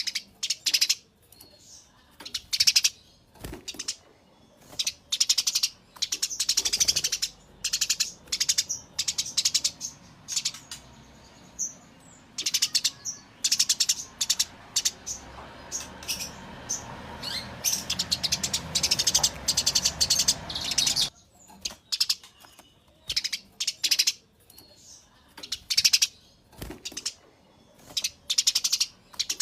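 Eurasian tree sparrows chirping in rapid, repeated bursts of sharp, high chirps, a run every second or so, the agitated chirping of sparrows squaring off. A faint low rumble sits under the chirps for several seconds midway.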